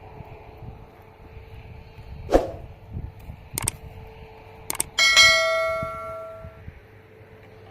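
A few sharp knocks on metal, then a loud clang from a struck steel shovel blade that rings out for about a second and a half.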